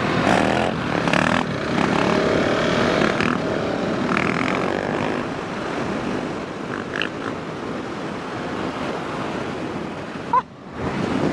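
A motorcycle engine running under a steady rushing noise, with a brief dip in level near the end.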